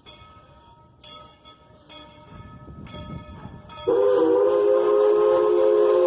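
The bell on 1943 Baldwin narrow-gauge steam locomotive No. 190 rings about once a second. Nearly four seconds in, the locomotive's steam whistle suddenly blows loud, a steady chord of several tones that holds on.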